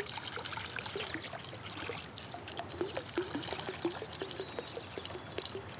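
Water trickling and splashing in many small quick drops. About two seconds in, a bird gives a short run of high, falling notes.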